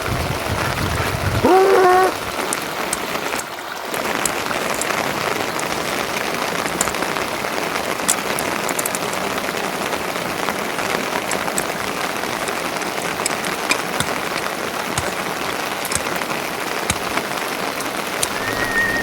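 Steady rain falling, with scattered drops ticking. About a second and a half in, a short loud pitched call cuts through the rain.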